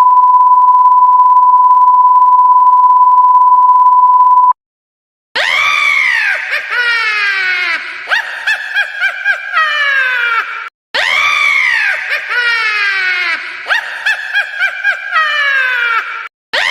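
A steady, high beep tone held for about four and a half seconds. After a brief gap comes a high-pitched squealing sound effect made of quick arching and falling pitch sweeps, and the same clip plays twice back to back.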